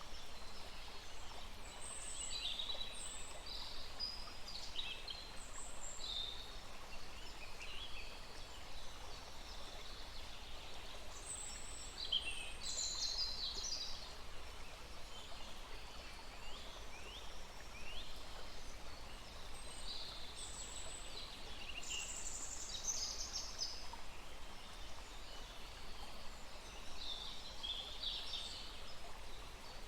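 Small forest stream running steadily, with various songbirds calling and chirping throughout.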